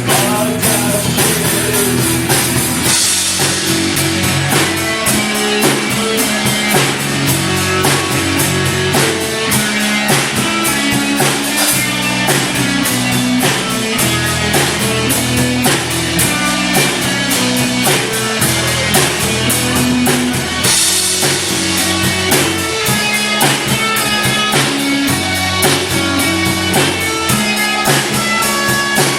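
Rock band playing live, drum kit driving a steady beat under guitars, with cymbals coming in loud about three seconds in and again past the twenty-second mark.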